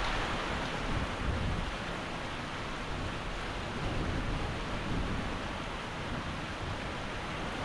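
Heavy hurricane rain falling steadily, with a low, uneven rumble underneath.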